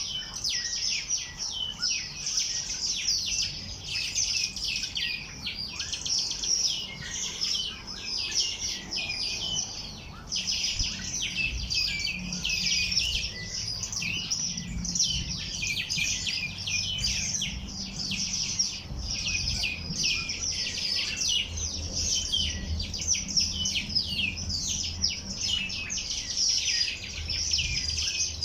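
Many small birds singing and chirping together in a dense, unbroken chorus of quick high twitters and trills.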